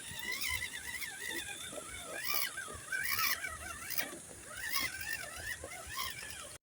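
Electric RC rock crawler's motor and gearbox whining, the pitch rising and falling quickly with the throttle, with a few brief scrapes of tyres and chassis on rock.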